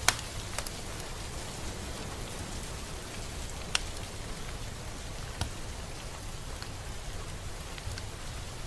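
Steady rain falling, an even hiss, with a few sharp taps standing out, at the very start and about four and five and a half seconds in.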